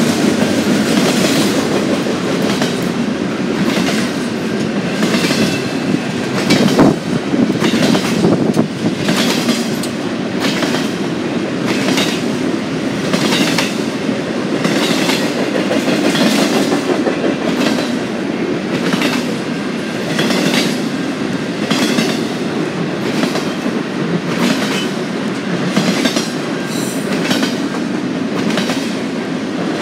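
Cars of a freight train rolling past, the wheels clicking over rail joints about once a second over a steady rolling rumble.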